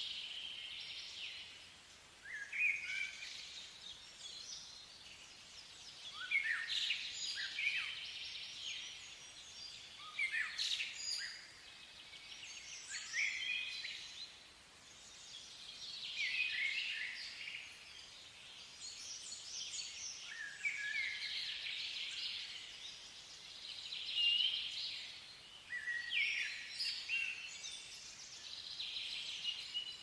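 Small birds chirping and twittering in short bursts of quick notes, a new burst about every three to four seconds.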